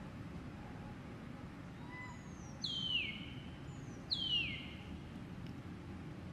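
A bird gives two clear whistled calls about a second and a half apart. Each call slides steeply down in pitch and is led by a fainter, higher note. Steady low background noise runs underneath.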